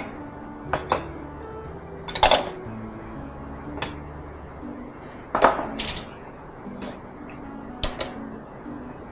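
Kitchen utensils clinking against dishes, several sharp clinks at irregular intervals, over soft background music.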